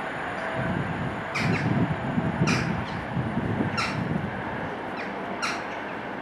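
Low rumble of a receding express train's wheels on the rails, swelling and then easing, with short harsh bird calls repeating about once a second over it.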